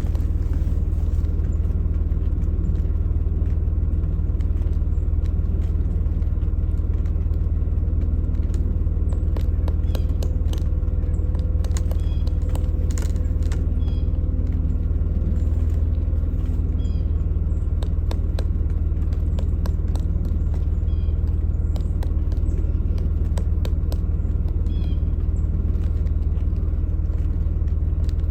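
A steady low rumble, like a vehicle's running engine, throughout. Over it come scattered sharp taps, mostly around the middle, from the pileated woodpecker pecking into the tree, and a few faint high chirps.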